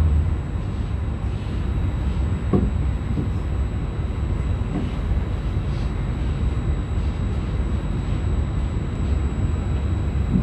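Trenitalia regional electric train heard from inside the carriage while running at speed: a steady low rumble and rolling noise, with a single short knock about two and a half seconds in.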